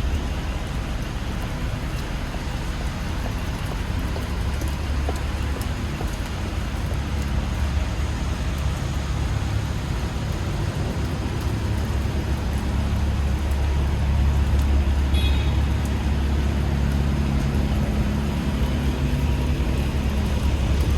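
Steady city street traffic: cars and buses passing with a low rumble that swells as a heavier vehicle goes by about 14 seconds in. A brief high tone sounds about 15 seconds in.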